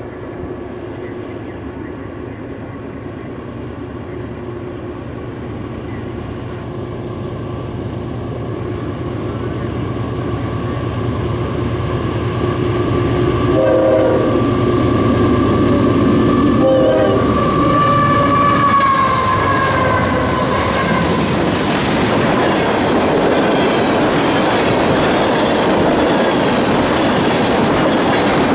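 Diesel freight train led by GE AC4400CW and ES44AC locomotives approaching, its engine sound growing louder. The horn gives two short toots about halfway through, the pitch drops as the locomotives pass, then empty tank cars roll by with steady clickety-clack wheel noise.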